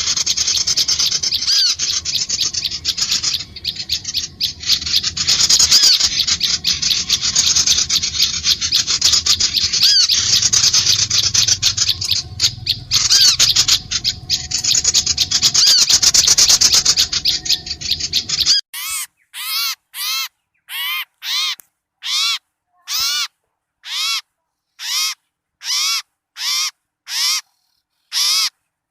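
Bird-lure recording of a noisy chorus of many small birds chattering and calling together. About 18 seconds in, the chorus cuts off and a single harsh call takes over, repeated about once a second.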